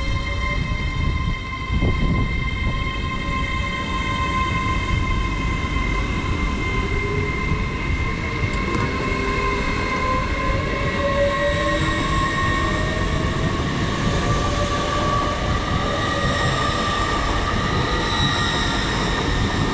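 Hitachi Class 800 Azuma train pulling away, its traction whine running steady and then several tones slowly rising in pitch as it gathers speed, over a low rumble. A single sharp knock sounds about two seconds in.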